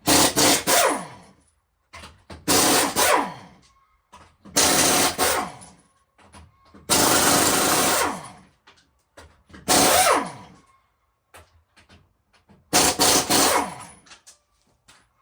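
A handheld power tool runs in six short bursts about every two to three seconds, each falling in pitch as it spins down. It is running fasteners off the front end during a steering-linkage job.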